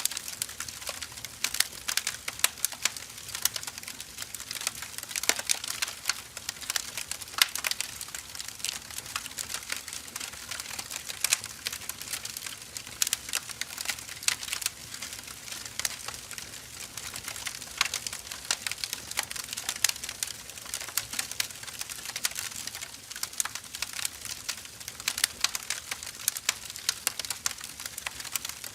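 Burning firewood crackling, with a steady stream of irregular snaps and pops, some much sharper than others, over a faint hiss.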